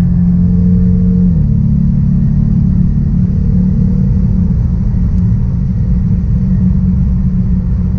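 A 2021 Dodge Charger R/T's 5.7-litre HEMI V8 running while the car is under way: a steady low drone with road rumble. The engine note steps down slightly about a second and a half in.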